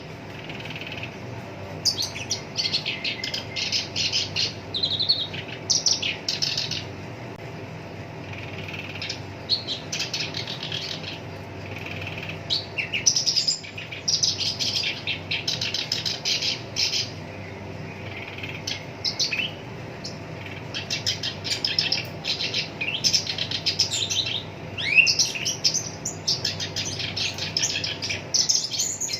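Black-browed reed warbler singing a harsh, fast chattering song in repeated bursts of one to two seconds, separated by short pauses, with a steady faint low hum underneath.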